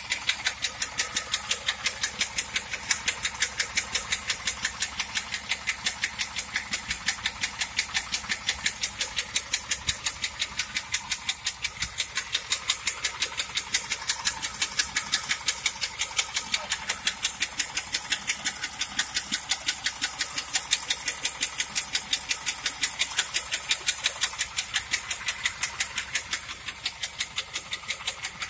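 1997 Pontiac Trans Am's 5.7-litre LT1 V8 running at idle with a rapid, evenly spaced knock keeping time with the engine, the bad engine noise the owner is trying to track down.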